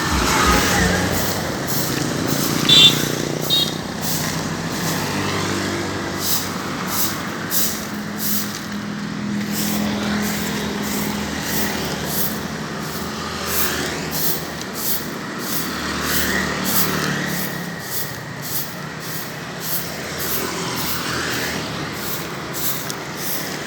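Street traffic: truck and other vehicle engines running and passing by, with a steady hum that swells and fades as they go.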